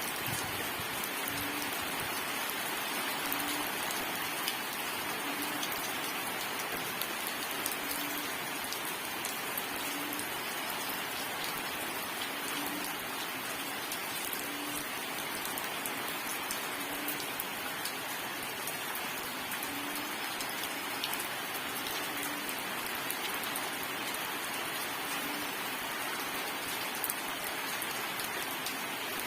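Steady rain falling on surfaces, an even hiss of rain with individual drops ticking through it.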